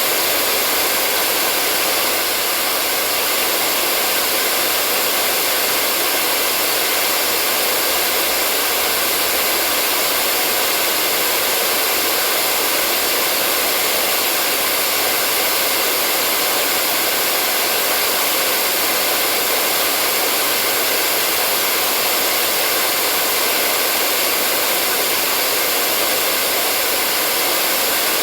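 Hair dryer blowing at a constant setting: a loud, steady airy hiss with a faint motor whine.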